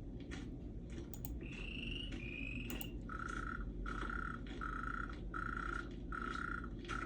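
Layered nature sounds played from an ambient-sound mixer website: a steady low hiss of rain under a few mouse clicks and two short high whistles, then, from about three seconds in, a croaking call that repeats about every three-quarters of a second.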